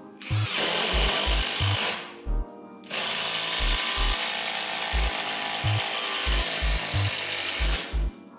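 Parkside Performance PDSSAP 20-Li A1 cordless impact driver running in two bursts: a short one of about two seconds, then a longer one of about five seconds after a brief pause. Background music with a steady beat plays underneath.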